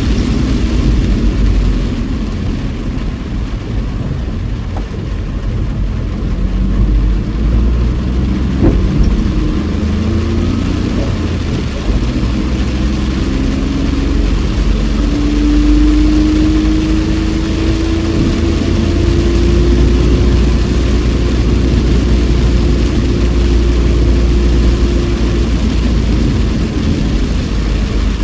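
Inside a moving car in heavy rain: a steady low engine and road rumble with wet-road and rain hiss. About halfway through, an engine note rises slowly in pitch for roughly ten seconds as the car gathers speed.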